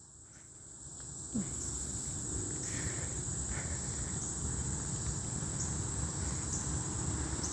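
Steady high-pitched drone of crickets or katydids in the woods. From about a second and a half in, a low rustling noise is added.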